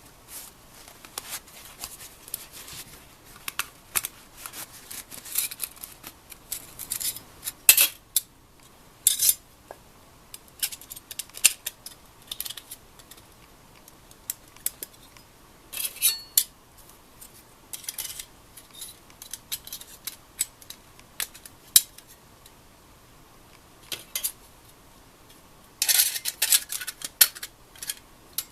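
Irregular clinks, taps and scrapes of small metal items, such as stainless gear and utensils, being handled and set down, with short rustling bursts now and then.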